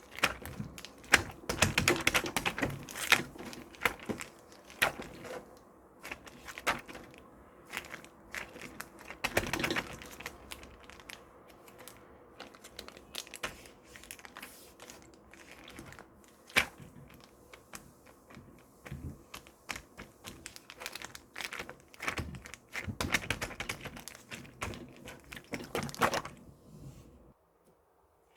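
Irregular close-up taps, clicks and crinkling handling noises, in quick clusters with short pauses, stopping about a second before the end.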